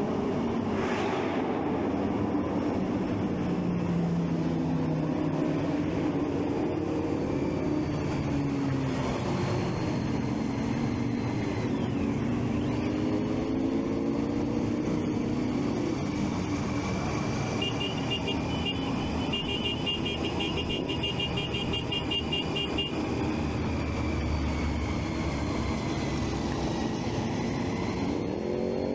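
Triumph Street Triple 675's three-cylinder engine running under way, the revs rising and falling through throttle and gear changes, with road and traffic noise; it revs up again near the end. A rapid high electronic beeping sounds for about five seconds around the middle.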